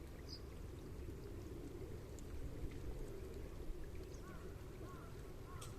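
Wood fire burning in a fire pit, with faint scattered crackles over a steady low rumble; a few short calls, likely from birds, come in near the end.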